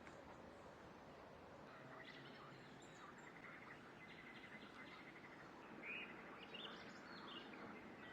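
Faint birdsong over a steady outdoor hiss: a couple of rapid trills and several short chirps.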